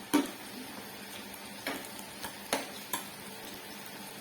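Meat sizzling on a grill in a steady low hiss, with a few sharp clicks of utensils against plates and grill, the loudest just after the start.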